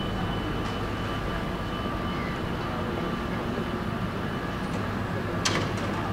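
Steady hum and rumble of a railway platform with a passenger train standing at it, and one sharp clack about five and a half seconds in.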